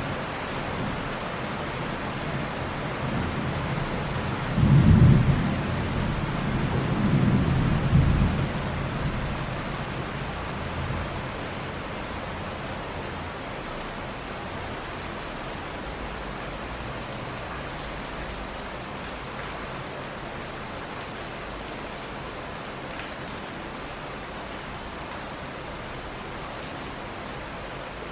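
Steady rain with rolling thunder. A loud low rumble comes about five seconds in and a second one around seven to eight seconds, fading out by about eleven seconds; after that the rain goes on alone, a little quieter.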